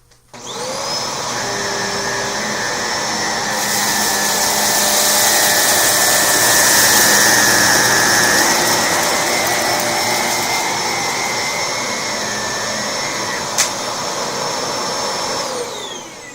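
Electrolux upright vacuum cleaner with a self-cleaning brush roll switched on and whining up to speed, running with its brush spinning on carpet, louder for a few seconds mid-pass, then switched off and spinning down near the end. A single sharp click sounds a little before it winds down.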